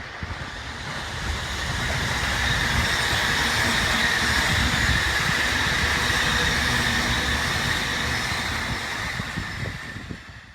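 Electric commuter train passing at speed, the wheels and running noise building up, holding steady for several seconds, then fading away.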